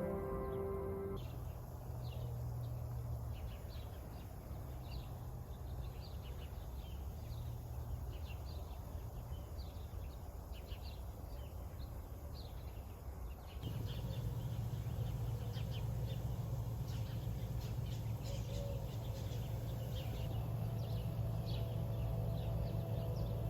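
Outdoor ambience of small birds chirping in short, repeated high calls over a low steady hum. The background changes abruptly about a second in and again near the middle.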